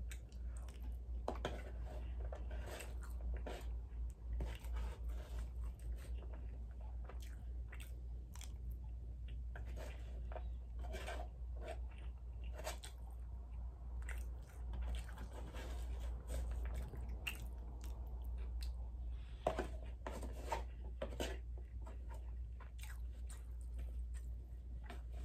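Close-miked chewing and mouth smacking while eating crab fried rice, a run of short wet clicks and crunches. A plastic fork scoops and scrapes in a foam takeout box.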